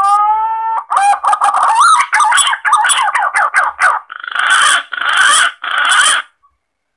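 Recorded green pigeon (punai) calls used as a hunting lure: a rising whistled note, then a run of quick warbling notes, then three longer rough notes that end about six seconds in.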